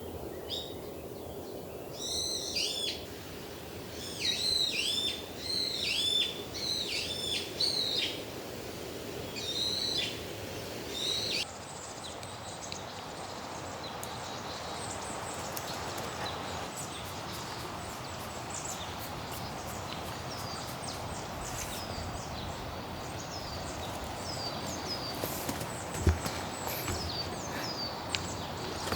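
A songbird calling in loud bursts of repeated high, arching chirps over a steady hiss, which stop abruptly about eleven seconds in. A steadier rushing noise follows, with fainter bird chirps scattered through it and one sharp click near the end.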